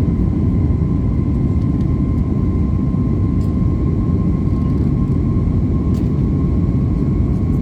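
Airbus A321neo's jet engines heard from inside the cabin: a steady, loud low rumble with a thin high whine over it that creeps slightly higher in pitch near the end.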